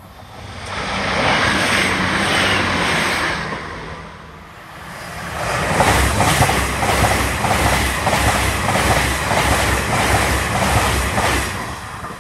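Long passenger train passing close by at speed: a steady rush that builds over the first second and dips around four seconds in, then the rhythmic clickety-clack of its wheels over the rail joints, about two to three beats a second, easing off near the end.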